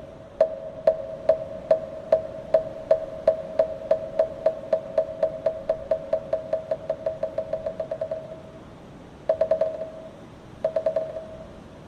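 Moktak, a Buddhist wooden temple block, struck with its mallet. The single hollow knocks come at about two a second and speed up into a fast roll, which ends about eight and a half seconds in. Two short quick rolls follow, the usual moktak pattern of chanting and ritual.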